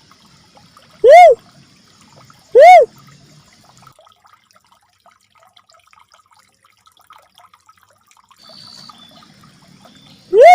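Cuckoo-dove (uncal merah) lure call: short, loud whoop notes that rise and then fall in pitch, two about a second and a half apart, then a pause of several seconds and one more near the end.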